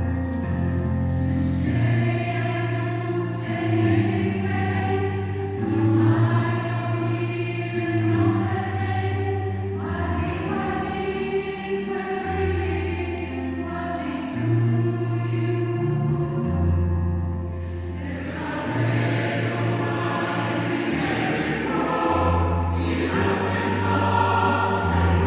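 Choir singing a sustained, multi-part song with words, the chords changing every second or two.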